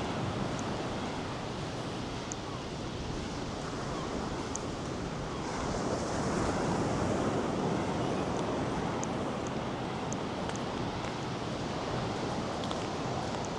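North Sea surf washing onto a sandy beach in a continuous rush, swelling about six seconds in as a wave breaks, with wind on the microphone.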